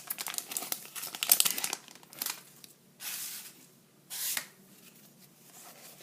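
Foil wrapper of a trading-card booster pack crinkling as it is torn open and handled. The crinkling is dense for about the first two seconds, then gives way to two short swishes about three and four seconds in.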